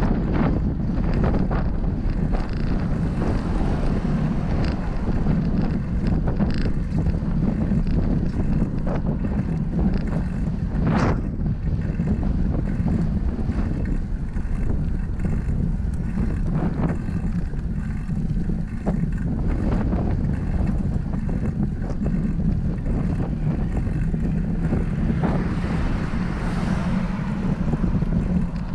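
Wind buffeting the microphone of a camera on a moving bicycle, a steady low rumble with scattered short clicks. A swell of passing traffic rises and fades near the end.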